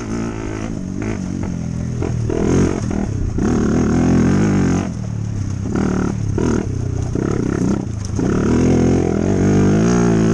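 Dirt bike engine running while ridden, its pitch rising and falling with the throttle, with several short dips.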